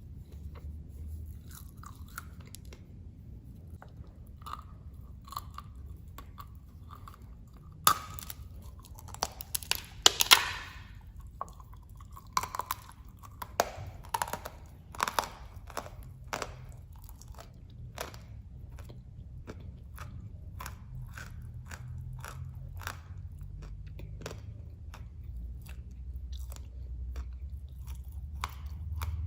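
Dry moulded clay blocks being bitten and chewed close to the microphone: sharp, crisp crunches, loudest about eight to ten seconds in, followed by a long run of smaller crunches.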